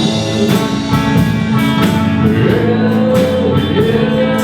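Live band playing an upbeat rock-and-roll number, with drums keeping a steady beat under guitar.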